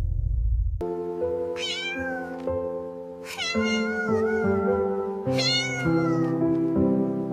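A kitten meowing three times over soft background music of held notes. A low rumble cuts off just under a second in.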